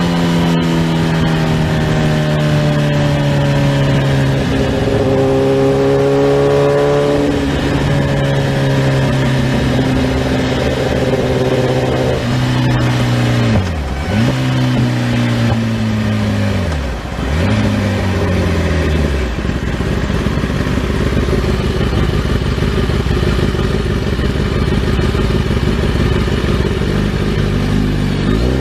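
Sportbike engine under way. Its note slowly sinks, then dips and recovers twice in quick succession, as in gear changes. After that it settles into a steady low drone under a rushing noise.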